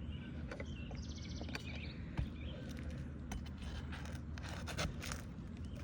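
Scattered clicks and scrapes of a roofing pry tool working a nail loose under asphalt shingles, with a brief run of fine rapid ticking about a second in.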